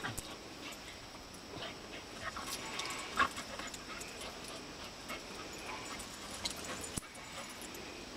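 Two dogs, a terrier mix and a Pembroke Welsh Corgi, play-fighting, with short dog vocal sounds and scattered clicks; the loudest sound comes about three seconds in.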